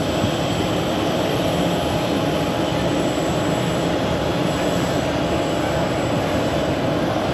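Steady aircraft engine noise across the airfield: a continuous, even rush with no change in pitch.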